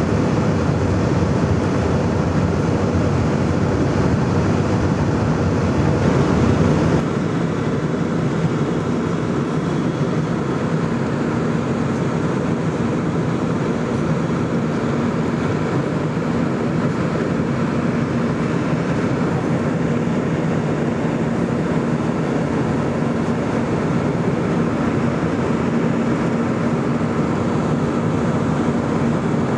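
Airbus A320 in flight after take-off: steady engine and airflow rumble with a faint steady hum, which drops in level and loses some of its low rumble about seven seconds in.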